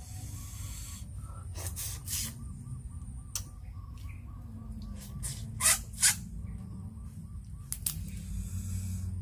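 Small crab shells and legs being cracked and pulled apart by hand, giving a series of sharp cracks and clicks, the loudest two close together a little past the middle. A faint rapid chirping repeats in the background.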